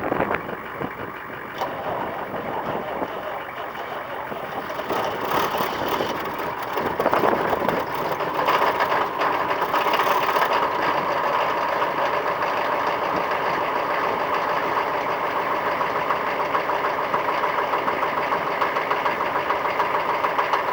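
Chevrolet 6.5-litre turbo-diesel V8 running just after a cold start, after sitting for about a week. It gets louder about a third of the way through, then settles into a steady cold idle.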